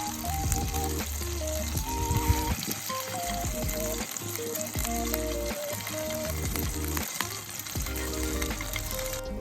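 Steak sizzling as it fries over a campfire, a steady crackling hiss, with a light melody of background music playing over it.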